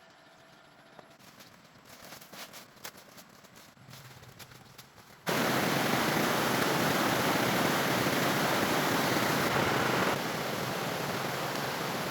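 A few light clicks and knocks, then about five seconds in a loud, steady rushing noise starts abruptly and runs on, dropping slightly in level near the end.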